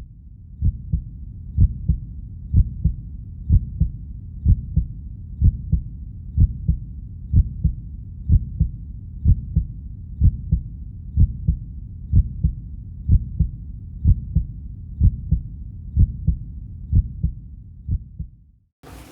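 Heartbeat sound effect: a slow, steady lub-dub of low thuds, about one beat a second, cutting off near the end.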